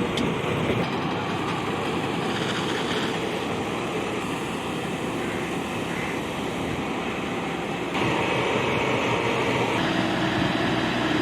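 Steady mechanical running noise from a fire-fighting truck at work, getting a little louder and brighter about two-thirds of the way through.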